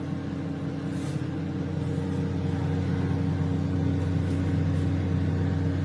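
Russell Hobbs RHM2076B 800 W solo microwave running with a steady hum. It started on its own as soon as it was powered at the plug, without being switched on: a fault.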